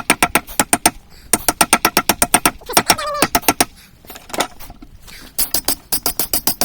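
Rapid runs of ringing metal-on-metal taps, about eight a second, in four bursts separated by short pauses.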